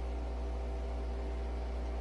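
Steady low machine hum with several constant higher tones, unchanging throughout.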